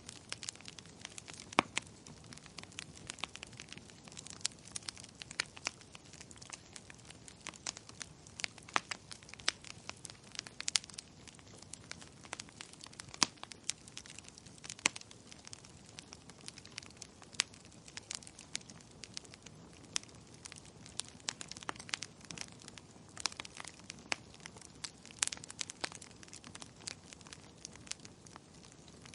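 Wood fire crackling in a fireplace: irregular sharp pops and snaps over a soft low hiss of burning.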